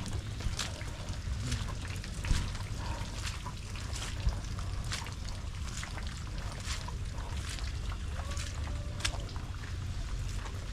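Water trickling and pouring in heavy rain, with irregular sharp drip ticks over a steady low rumble.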